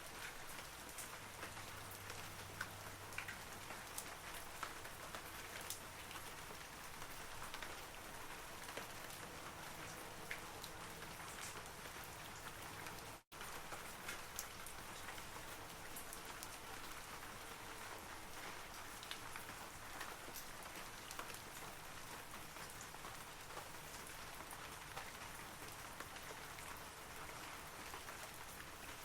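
Steady rain falling on forest trees: a soft even hiss with many single drops ticking through it. It cuts out for an instant about halfway through.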